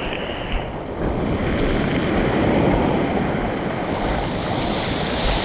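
Ocean surf rushing and breaking, with wind buffeting the microphone: a steady noisy wash that swells a little about two seconds in.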